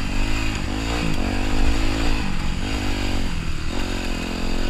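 Dirt bike engine under way, its pitch rising and falling several times as the throttle is opened and closed.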